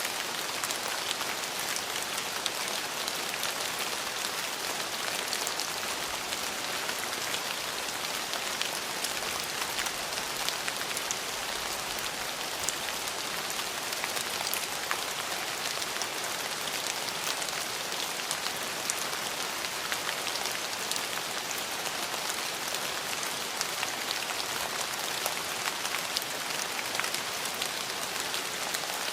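Steady rain falling on hard surfaces, a dense even hiss with many separate drops ticking through it.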